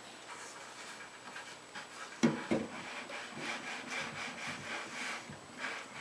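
Clothes iron sliding back and forth over hot-melt birch edge banding on a plywood edge, rubbing in repeated strokes. A sharp knock comes about two seconds in, then the rubbing continues.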